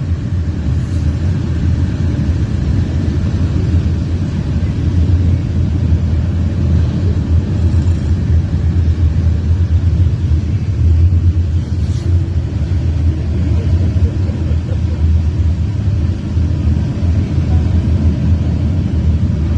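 Norfolk Southern freight train rolling past, a steady low rumble of the train's wheels on the rails that holds level throughout.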